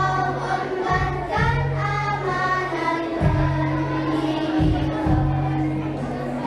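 Children's choir singing in unison over a musical accompaniment, with held sung notes above sustained bass notes that change about once a second.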